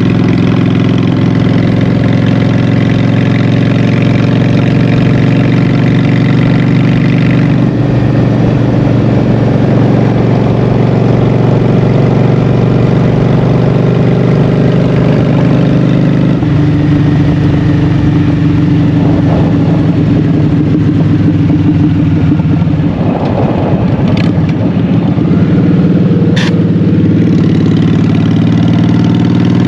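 Honda Shadow 750's V-twin engine running through Vance & Hines Shortshots exhaust pipes while the motorcycle is ridden. The engine note shifts twice, at about 8 seconds and again at about 16 seconds.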